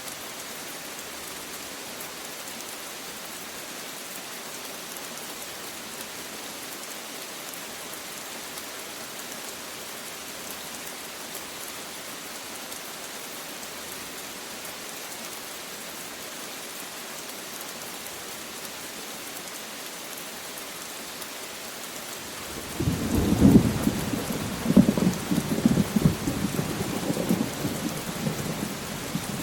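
Steady rain falling, then about three quarters of the way through a loud, rolling rumble of thunder breaks in and keeps rumbling in swells over the rain.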